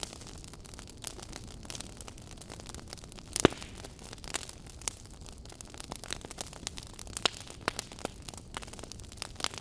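Campfire crackling: a steady low hiss of burning wood with irregular sharp pops and snaps, one much louder snap about three and a half seconds in.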